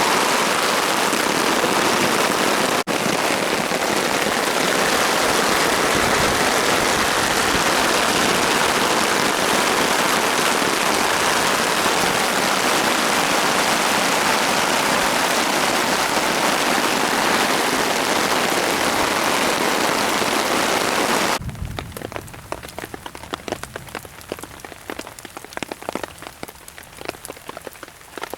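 Rain falling steadily, a dense even hiss. About 21 seconds in it cuts off abruptly to quieter, sparser patter of individual drops.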